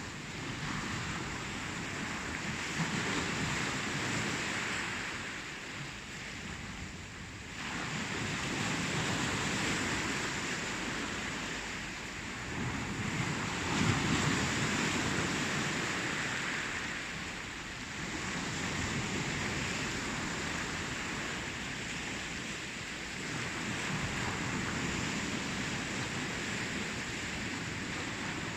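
Ocean waves breaking and washing on the shore. It is a steady rush of surf that swells and ebbs every several seconds, with the strongest surge about halfway through.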